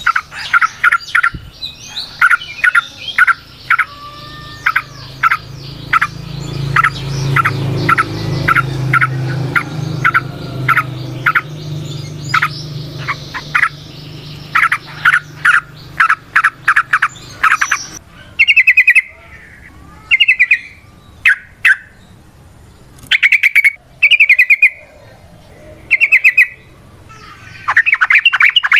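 Yellow-vented bulbul (trucukan) calling: a long run of short, sharp notes at about two a second, then, from about two-thirds of the way in, loud bursts of rapid chattering trills. A low hum swells underneath in the middle.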